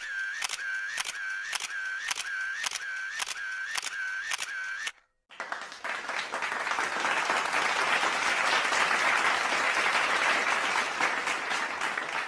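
Sound-effect clips: a run of sharp mechanical clicks, about two and a half a second, with a ringing tone between them, stops suddenly about five seconds in. After a brief gap, a crowd's applause builds and carries on.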